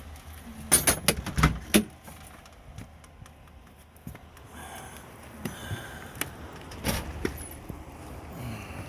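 A series of sharp clicks and knocks with light rattling: handling noise as someone moves to go outside. There is a cluster about a second in, a quieter stretch, then more knocks past the middle.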